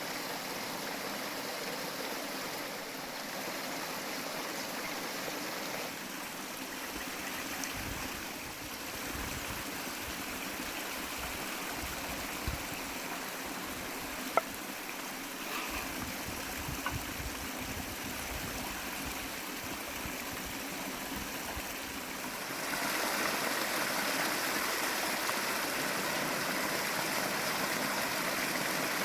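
A stream of water running steadily, with a sharp click about halfway through. The sound gets louder and brighter from about three-quarters of the way in.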